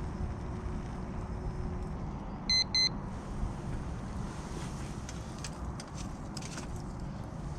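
Two short electronic beeps in quick succession, the loudest thing here, over a steady low rumble, with faint scattered clicks later on.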